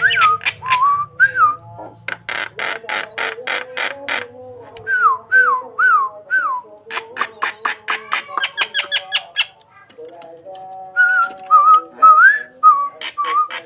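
Starling (jalak) singing a varied song: short rising-and-falling whistles repeated several times, broken by fast runs of sharp rattling clicks.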